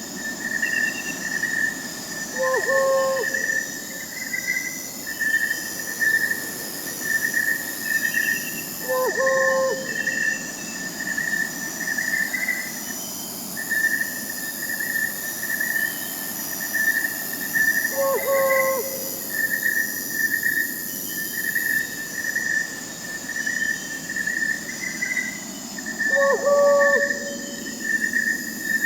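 Night forest ambience: crickets chirping in a steady pulsing trill, with a short owl hoot that comes four times, about every eight seconds.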